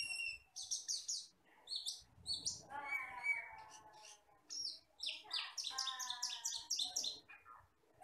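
Cucak keling (Asian glossy starling) singing: quick runs of short, high chirps and whistles. About three seconds in and again about five seconds in it breaks into lower, harsher warbling phrases.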